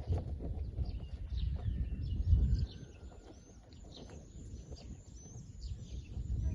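Small birds chirping over and over in short, high, downward-sliding notes, over a low rumble of wind on the microphone that swells about two seconds in and then eases.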